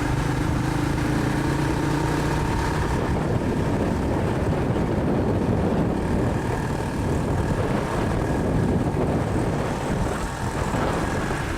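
Motorcycle engine running while riding along a city street, with a steady rush of traffic noise.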